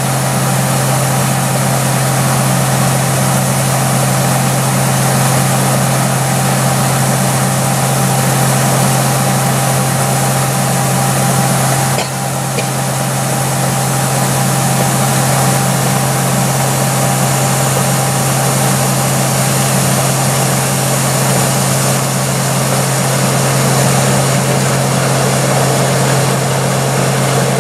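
A large harvest-machinery engine running steadily, with a low, constant hum under a broad noisy drone. There is a brief dip about twelve seconds in.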